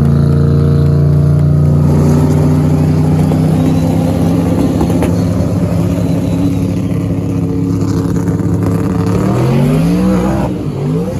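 Truck engine running loud at a steady held speed, then revved up twice in quick rising sweeps near the end.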